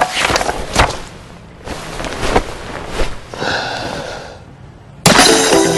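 A few sharp clicks and knocks, a short rushing noise, then a brief ringing tone; music starts about five seconds in.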